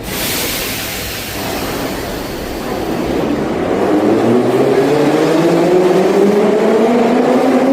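Moscow metro train pulling away: a sudden hiss at the start, then its traction motors whining, rising steadily in pitch as it accelerates.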